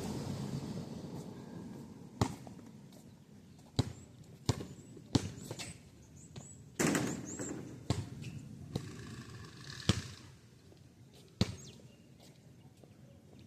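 A basketball bouncing on the street pavement, about ten single sharp bounces at uneven intervals. The noise of a passing vehicle fades away over the first couple of seconds.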